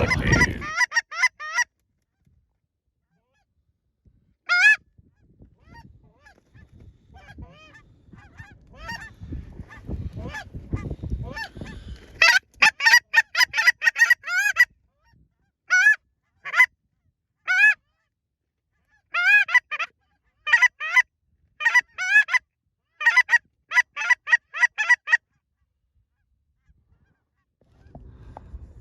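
Goose honks and clucks in quick rapid runs: a short run at the start, a lone call a few seconds later, then several fast volleys in the second half.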